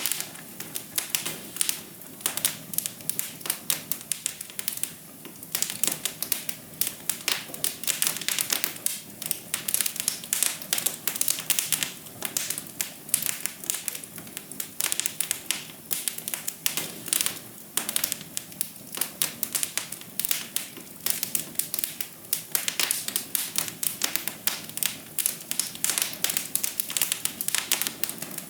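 Wood fire crackling: dense, irregular pops and snaps over a steady hiss.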